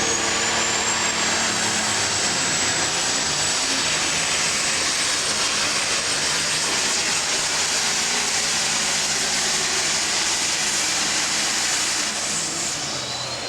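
Diesel super stock pulling tractor running at full throttle under load. A loud, even engine noise carries a high turbocharger whine that climbs in pitch as it spools up at the start, then holds steady. The sound eases slightly near the end.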